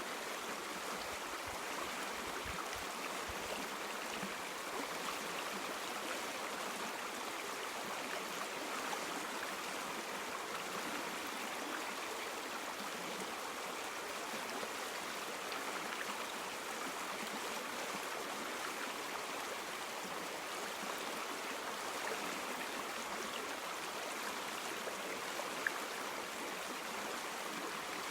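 River water flowing over stones, a steady rushing and babbling with no break.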